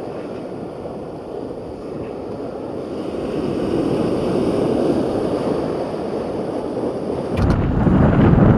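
Sea waves washing on the shore with wind, the wash swelling and easing midway; near the end a gust buffets the microphone with a heavy rumble.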